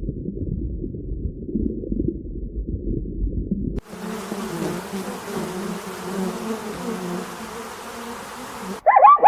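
A low, rough rumbling noise for about four seconds gives way to an insect buzzing with a steady hum. Right at the end, rapid repeated bird chirps begin.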